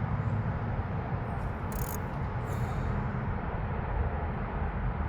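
Wind buffeting the microphone, a steady low rumble, with a brief sharp click about two seconds in.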